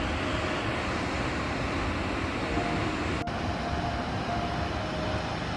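Steady roar of a waterfall, water rushing and falling with an even, unbroken noise.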